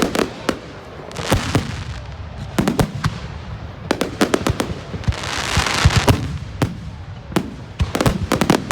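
Fireworks going off: sharp bangs in quick clusters every second or so, with a swell of hiss rising and falling about halfway through.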